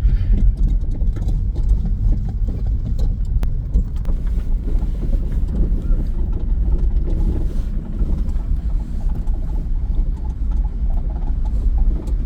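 Steady low rumble of a moving car, its engine and tyres on the road, heard from inside the taxi.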